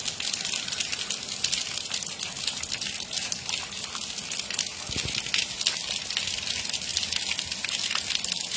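Steady rain falling on a wet paved street: an even hiss with many small ticks of drops striking close by.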